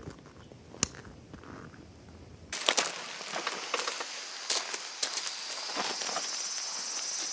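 Outdoor ambience of clicks and rustling, with one sharp click a little under a second in. About two and a half seconds in it changes suddenly to busier clicking and crackle, and a steady high insect drone comes in past the middle.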